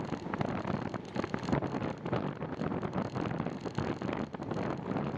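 Wind buffeting the microphone of a camera on a moving bicycle: a steady rushing rumble that flutters constantly.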